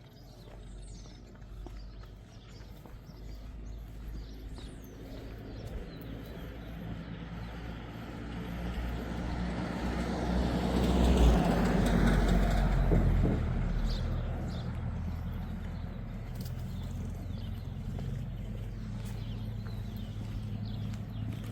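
A motor vehicle approaches, loudest about eleven to thirteen seconds in, then drops back to a lower steady rumble. Birds chirp now and then.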